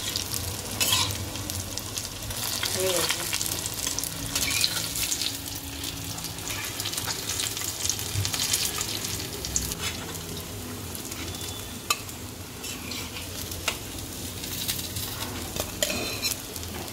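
Batter-coated white gourd fritters (chalkumror bora) frying in a kadai over a medium-low flame: a steady sizzle that swells and eases, with a few sharp clicks.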